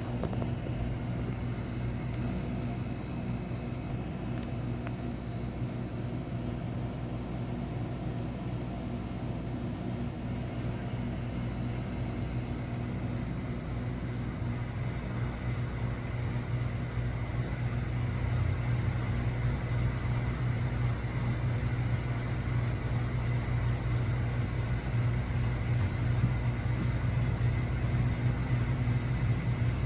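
Steady low mechanical rumble with a faint hum, growing a little louder in the second half.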